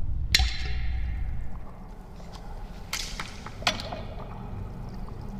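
Intro sound effects: three sharp whip-like cracks, the first and loudest just after the start and two close together past the middle, each trailing off, over a low rumble that fades after the first second or so.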